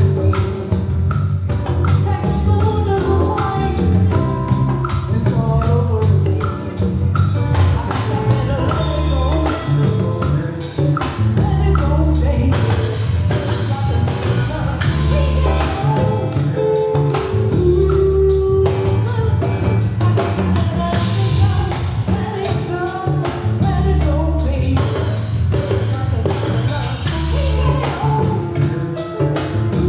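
Live band playing a song with a singer, drum kit and bass keeping a steady beat.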